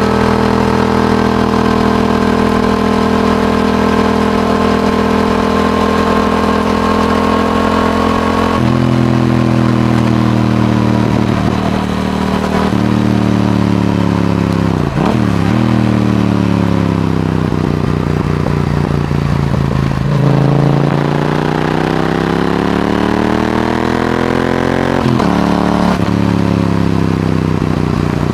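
Yamaha R7's parallel-twin engine through an Akrapovic exhaust, ridden on the road. It holds steady revs, then the throttle closes about a third of the way in and the pitch falls away with a couple of short blips, climbs again under acceleration, and breaks off with a gear change near the end before winding down.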